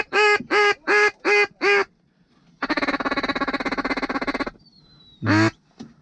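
Mallard duck call blown by a hunter to bring ducks in to land: a string of about six evenly spaced quacks, then a fast, continuous feed chatter lasting about two seconds, a thin falling whistle, and one last quack about five seconds in.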